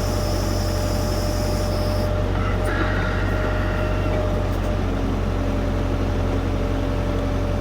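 LS U5030 tractor's diesel engine running steadily under backhoe work, with thin whining tones from the hydraulics coming and going. The hydraulic fluid is still cold and warming up.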